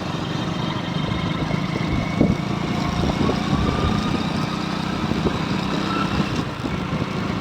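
Motorcycle engine running steadily at low speed while being ridden, with road and wind noise, and a short knock about two seconds in.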